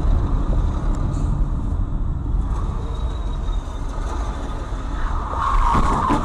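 Steady low rumble of a vehicle in motion, with a louder, harsher rushing noise swelling near the end.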